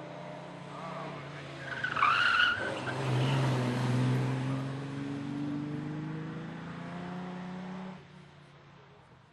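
Classic racing car launching hard, with a brief tyre squeal about two seconds in, then its engine revving steadily higher as it accelerates away. The engine sound drops away suddenly about eight seconds in.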